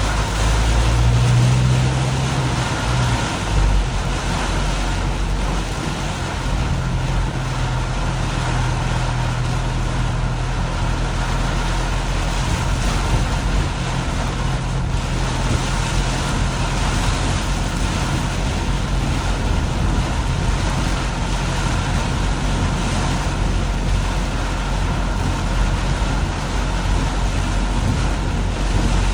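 Car driving on a rain-soaked road in heavy rain: a steady hiss of rain and tyre spray over a low engine hum.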